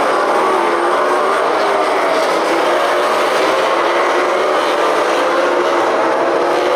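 MotoGP race bikes' engines running at high revs as they pass on track, several engine notes overlapping and wavering up and down in pitch in a steady, loud din.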